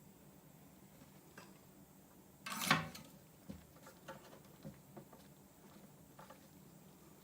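Small objects being handled on a work surface: one brief scraping rustle about two and a half seconds in, then a few faint, scattered clicks.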